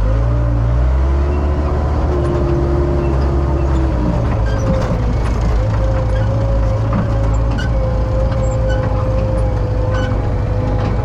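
Case 580K backhoe's diesel engine running steadily under power, with a steady whine above the engine note; the engine note shifts about four seconds in.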